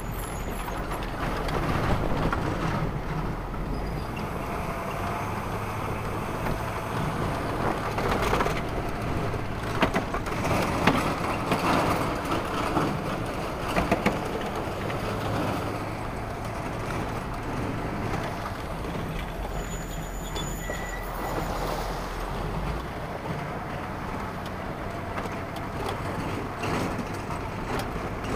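Steady engine drone mixed with wind rumble, as from a vehicle on the move. A few sharp knocks come between about eight and fourteen seconds in.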